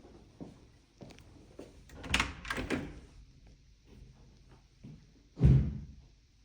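A door being handled: a few quick knocks and rattles about two seconds in, then one loud, low thud about five and a half seconds in as it shuts.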